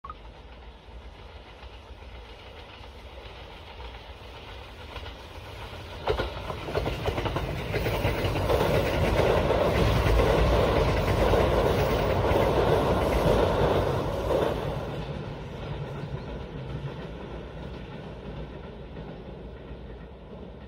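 A train running on rails, with a sharp onset about six seconds in, loudest in the middle and then fading away over several seconds.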